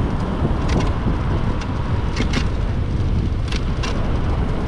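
Wind rushing over the microphone and road noise while riding an electric motorbike through city traffic, steady and loud, with a few short sharp clicks about a second in, around two seconds in and again near the end.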